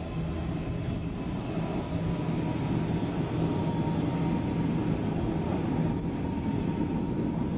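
Tram running: a steady low rumble with a faint high whine that sinks slowly in pitch.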